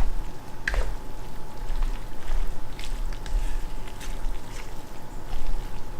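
Stir fry of rice noodles, shrimp and broccoli being stirred in the pan just off the heat: a steady hiss with a few sharp utensil clicks against the pan.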